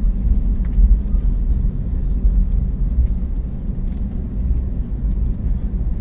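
Airbus A321neo cabin noise while taxiing: a steady low rumble from the idling engines and the aircraft rolling on the ground, with a few faint ticks above it.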